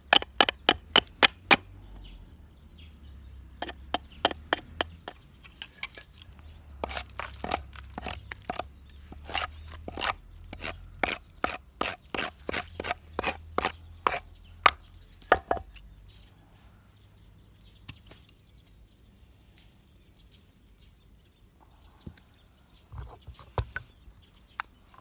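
A tool striking wood: quick runs of sharp knocks, about four or five a second, in bursts, stopping about fifteen seconds in with only a few scattered knocks after.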